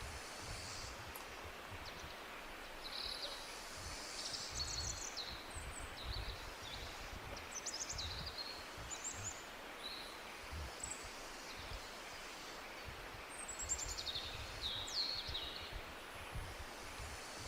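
Forest birds singing: short chirps, quick trills and down-slurred notes from several birds, busiest a few seconds in and again near the end. Under them runs a steady background hiss with a low, gusty rumble.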